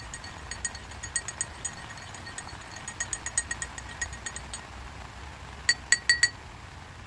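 Light metallic clinks ringing at the same pitch, irregular at first, then a quick run of four louder ones near the end, over a steady hiss of rain.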